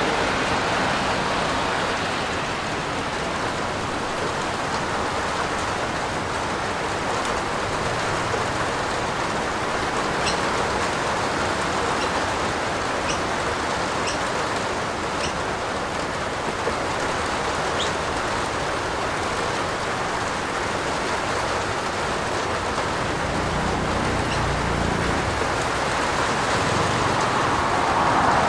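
Steady rain falling, an even hiss with a few faint, sharp ticks of drops. A low rumble swells briefly near the end.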